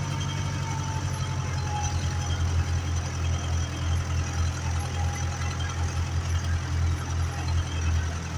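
Ursus 385 tractor diesel engine running steadily under ploughing load, a low throbbing engine note.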